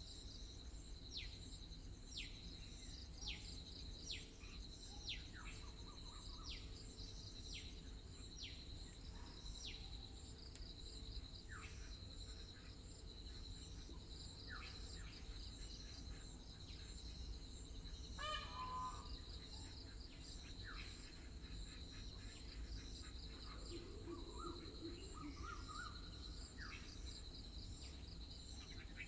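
Countryside ambience: a bird repeats a short falling whistle about once a second, with other scattered bird calls, over a steady high-pitched drone of insects.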